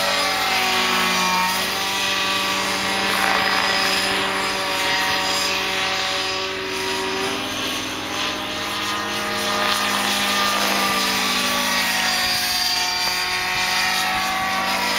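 Radio-controlled model helicopter flying, its engine and rotor running steadily, with the pitch sliding up and down as it passes back and forth.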